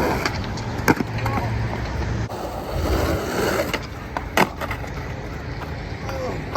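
Skateboard wheels rolling over pavement, with two sharp board clacks about a second in and again past four seconds.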